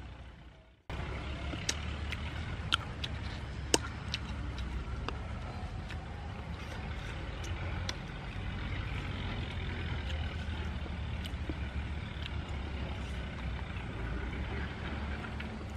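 Close eating sounds, sharp clicks and crunches of chewing lettuce-wrapped food, over a steady low rumble of wind on the microphone. The sound fades out at the start and cuts back in about a second in.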